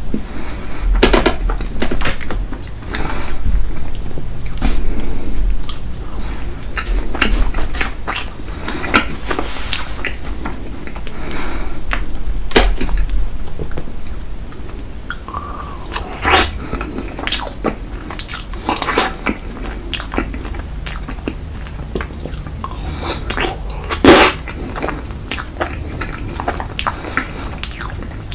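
Close-miked eating of ice cream cake and ice cream: biting and chewing with many short clicking mouth sounds, the sharpest about 24 seconds in, over a low rumble through the first half.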